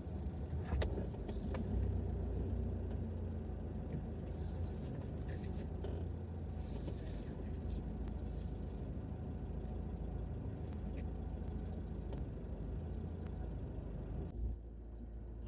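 Campervan engine running, a steady low rumble heard from inside the cab, with a few short faint clicks and rattles.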